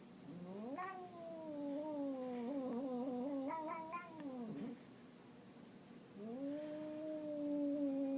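Domestic cat yowling in two long, drawn-out calls. The first rises, then slowly sinks and wavers before it breaks off; the second, about a second and a half later, rises and holds a steady pitch.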